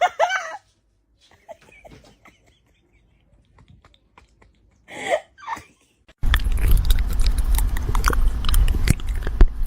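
Close-up chewing and crunching with many clicks and a low rumble, starting suddenly about six seconds in. Before it there are faint clicks and a brief cry.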